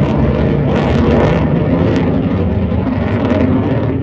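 F-35B Lightning II's single F135 jet engine running at high power: a loud, steady deep rumble with crackling.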